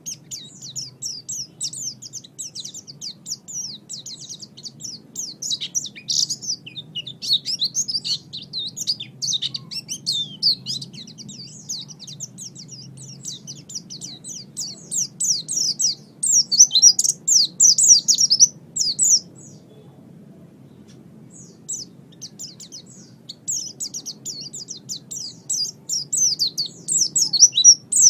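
White-eye (pleci) singing a fast, high-pitched twittering song of rapid chirps, breaking off for a few seconds past the middle before resuming. A steady low hum lies underneath.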